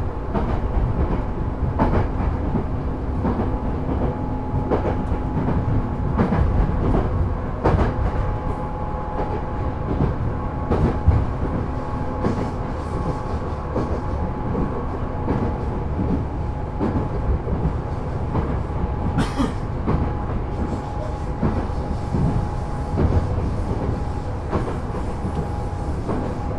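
Running sound of a JR 205-series 600 sub-series electric train underway between stations: a continuous rumble of wheels on rail with steady tones. Scattered sharp clicks come as the wheels cross rail joints.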